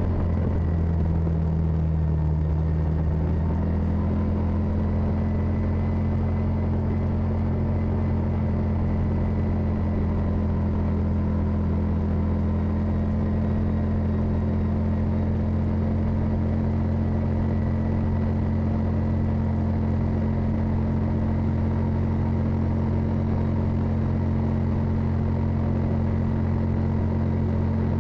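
Side-by-side UTV engine running steadily under way on a trail, a constant low drone that shifts slightly in pitch in the first few seconds and then holds steady.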